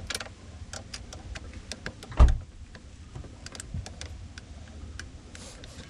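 Small clicks and taps of hands fitting ignition switch parts under a steering column, with one louder thump a little over two seconds in.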